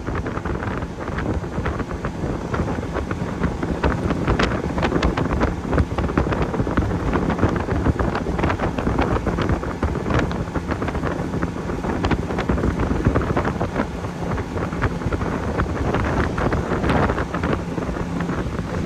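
A motorboat running at speed, with wind buffeting the microphone and the hull slapping on waves in many short cracks. A faint steady engine hum sits beneath.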